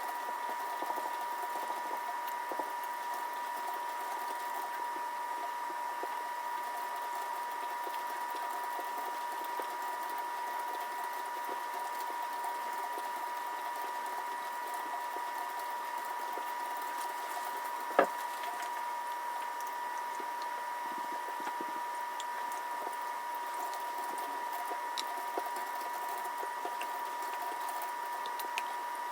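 Steady machine hum with a constant high tone, and one sharp click about eighteen seconds in.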